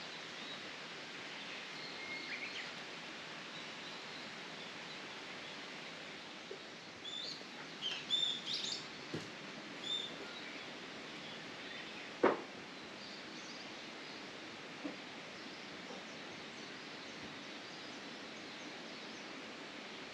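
Steady outdoor background hiss, with birds giving a quick run of short, high chirps about seven to ten seconds in. A single sharp knock about twelve seconds in is the loudest sound.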